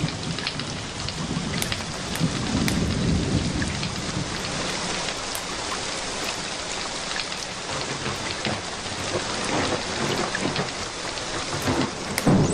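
Steady rain with a low rolling rumble of thunder, strongest a couple of seconds in. Scattered sharp crackles of a wood fire in a fireplace run through it.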